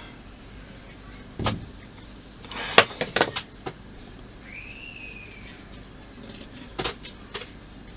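Sharp clicks and knocks of small model parts being handled and set down on a workbench: a single knock, then a quick cluster of clicks about three seconds in, and two more near the end. In between there is a brief, faint squeak that rises and falls.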